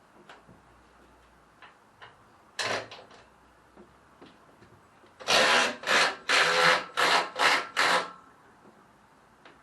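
Harsh scraping or rasping strokes of a hand tool worked back and forth: a few light clicks and one short stroke, then six quick strokes in a row, about two a second.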